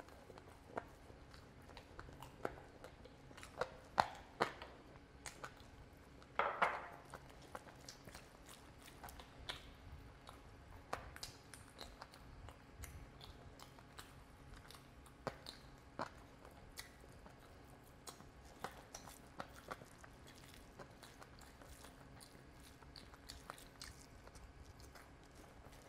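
Close-miked eating sounds: a man chewing and biting chicken curry and rice eaten by hand, a string of scattered wet smacks and clicks, the loudest cluster about four to seven seconds in.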